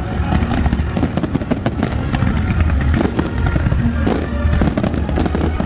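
Fireworks display: a dense, continuous barrage of bangs and crackles from many shells bursting at once, over a steady low rumble.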